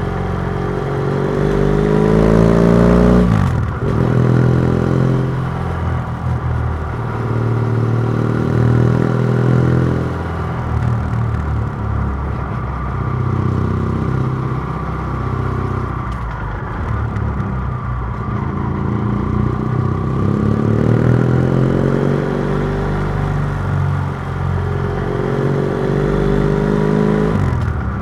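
BMW F700GS parallel-twin engine through a MIVV Oval titanium exhaust with its dB killer removed, pulling under throttle. The engine pitch climbs, then drops sharply about three seconds in and again near the end, with further rises and easings between.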